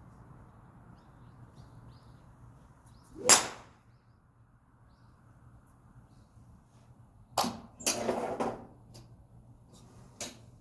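Golf club striking a ball with one sharp crack about three seconds in, followed later by a click, a short scuffing noise and another small click.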